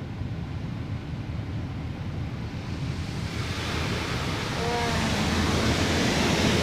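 Automatic car wash spraying water over the car, heard from inside the cabin: a low rumble, then about three seconds in a hiss of spray starts and grows steadily louder.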